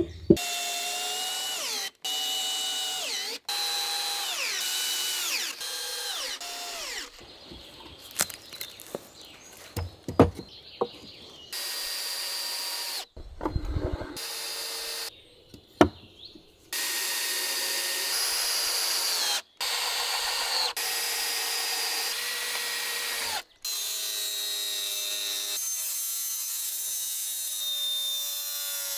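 Power drill driving long wood screws into timber in a series of runs, the motor's pitch dropping as each screw bites and pulls tight, with a few knocks of wood between runs.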